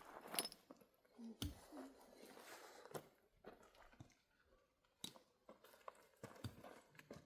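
Faint, scattered clicks and knocks with light rustling between them; the sharpest knocks come about one and a half seconds in and again near five and six and a half seconds.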